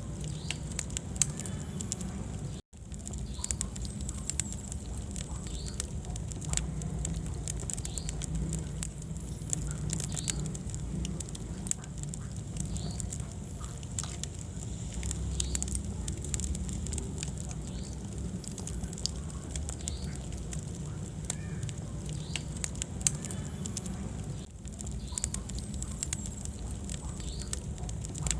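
Wood fire burning in a fireplace: irregular crackles and sharp pops over a steady low rumble of the flames, with a brief dropout a little under three seconds in.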